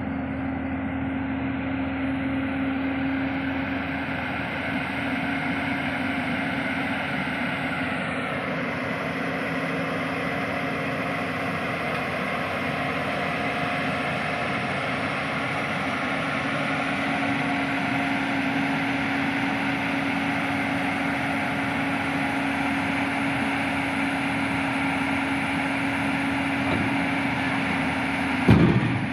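Heavy diesel engine of construction machinery running steadily with a constant hum, with one short loud knock near the end.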